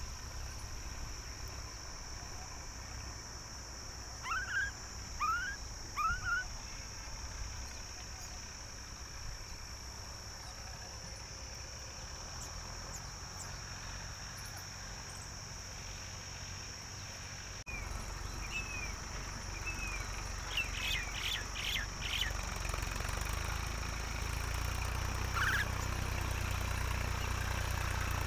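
Myna birds calling in short chirps: three quick rising chirps about four seconds in, then later a string of curved calls and a rapid run of notes, with one more chirp near the end. A steady low rumble and a steady high hiss run underneath.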